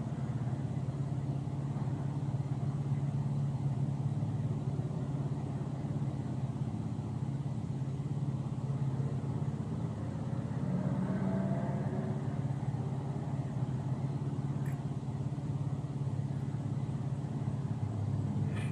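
MG ZS small SUV on the move: steady engine and tyre road noise, with the engine note rising for a couple of seconds about ten seconds in as the car accelerates. Two faint clicks come late on.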